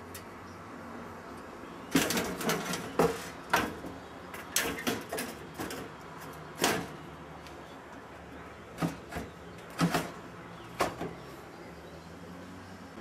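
Irregular sharp knocks and clatters in three clusters, over a steady low hum.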